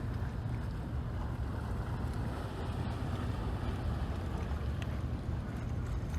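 Motor of an inflatable fishing boat running steadily under way: a constant low hum with wind buffeting the microphone.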